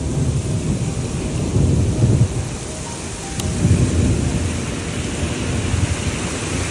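Thunder rumbling over steady heavy rain, the rumble swelling twice: about one and a half seconds in and again around four seconds in.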